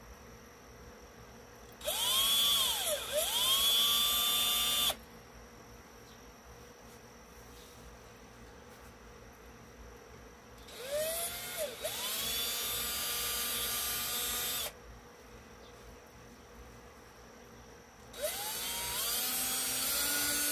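Electric drill run in three bursts of a few seconds each, drilling holes. Each time the motor whine rises in pitch as it spins up, dips briefly, then holds steady before stopping.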